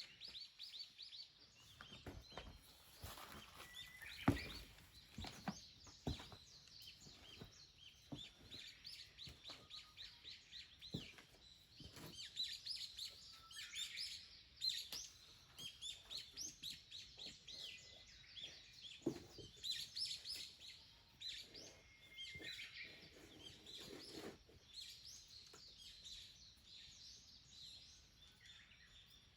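Small wild birds chirping and calling throughout in quick runs of short, high notes, with a few sharp knocks, the loudest about four seconds in.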